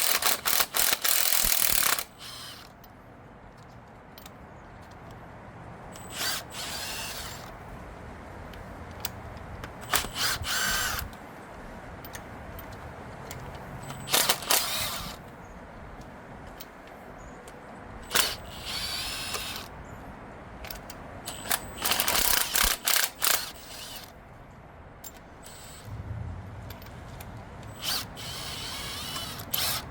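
A power tool running in short bursts of a second or two, about seven times, spinning out the LQ9 V8's cylinder head bolts, which have already been broken loose. The loudest burst, at the start, is a rapid clicking.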